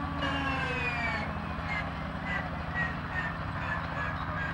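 Steady low engine drone, with high squeaky chirps that fall in pitch repeating about twice a second above it.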